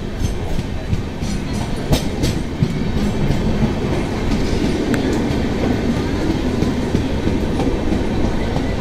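Express train coaches running at speed, heard from an open coach doorway: a steady rumble of the wheels with clickety-clack over the rail joints, sharpest in a run of clicks about two seconds in.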